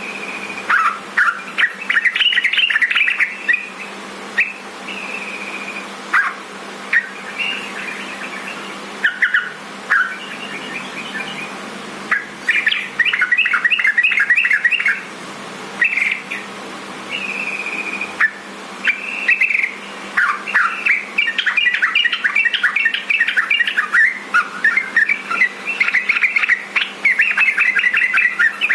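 Yellow-vented bulbul (trucukan) singing: short phrases of quick bubbling chirps and brief clear whistled notes, with small gaps between them, growing into longer, busier chirping runs in the second half.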